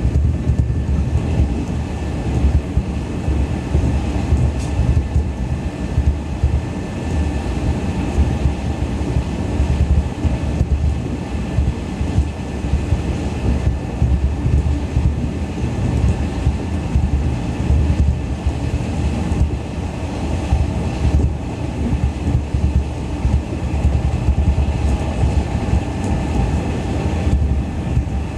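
Running sound of a JNR 113 series electric train heard inside the passenger car at speed: a steady rumble of wheels and running gear on the rails, with a faint high tone held at a constant pitch.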